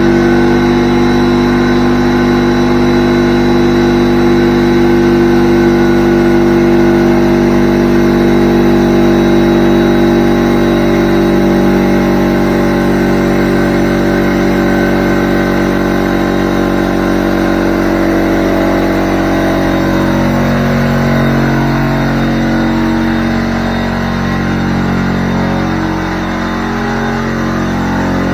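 McGraw 21-gallon air compressor starting up with a sudden loud start, then its electric motor and pump running steadily as it fills the tank.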